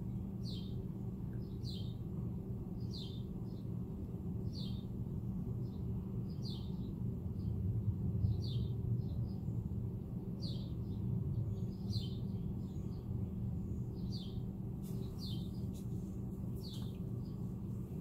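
Small songbirds chirping, short high notes repeated every second or so, over a steady low hum.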